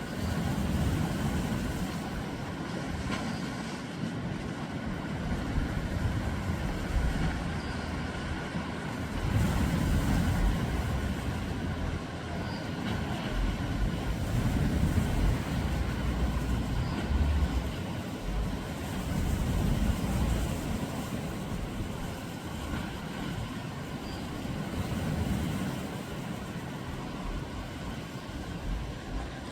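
Continuous low vehicle rumble that swells and eases every few seconds.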